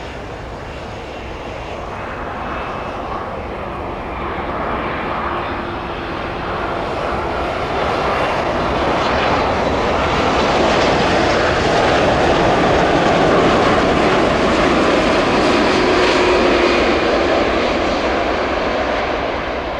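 Boeing 787-10 airliner on final approach to land, its jet engines growing steadily louder as it nears, loudest about two-thirds of the way through and easing slightly near the end.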